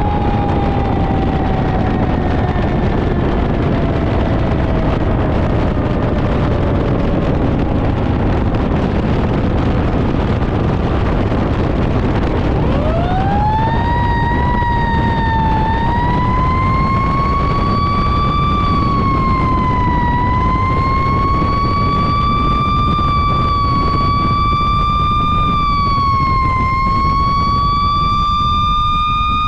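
Fire engine running under a loud, steady rumble with its siren sounding. Early on the siren tone slides slowly down in pitch; about twelve seconds in it winds back up quickly and then holds at a high pitch with slow, uneven dips.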